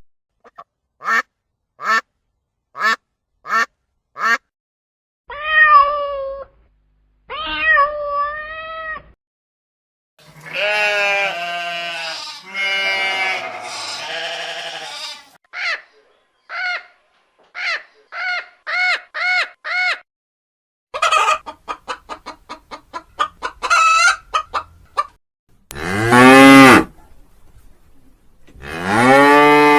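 A run of different animal calls, one kind after another: five short calls, then two longer wavering calls, a dense chorus, a string of evenly spaced calls, quick rapid calls, and two loud long calls near the end.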